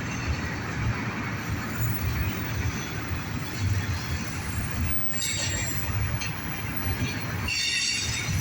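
Intermodal freight cars of a CSX train rolling past with a steady rumble of wheels on rail. Brief high-pitched wheel squeals come about five seconds in and again near the end.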